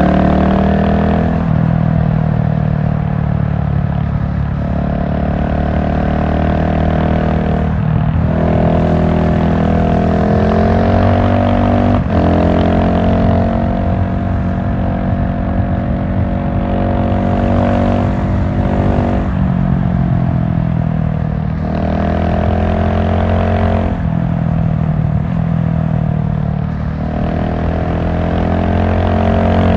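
GasGas SM700 supermoto's single-cylinder engine running under way, its note shifting in pitch several times, dropping and picking up again about a third and two-thirds of the way through.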